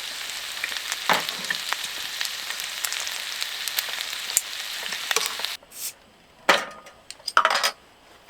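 Food sizzling over high heat, a steady hiss full of small pops and crackles that cuts off abruptly about five and a half seconds in, followed by a few short clatters.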